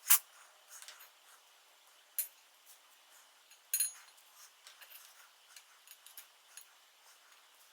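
Metal tools and small parts being handled: a sharp click at the start, ringing metallic clinks about two and four seconds in, then a scatter of light ticks.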